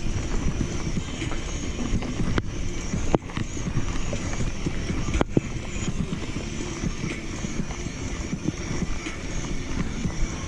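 Mountain bike rolling down a dirt singletrack: tyre rumble on the trail with steady rattling and knocking from the bike over bumps.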